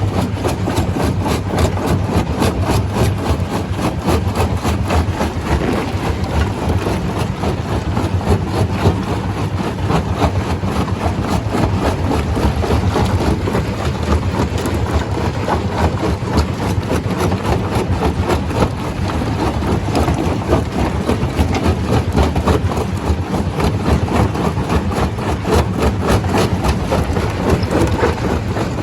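Stone crusher machine running steadily: a heavy engine drone with fast, continuous clatter over it, unchanging throughout.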